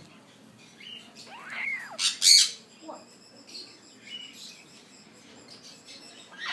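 Caged white pet bird calling: a whistle that rises and falls about a second and a half in, then a loud harsh squawk, followed by a few faint short chirps.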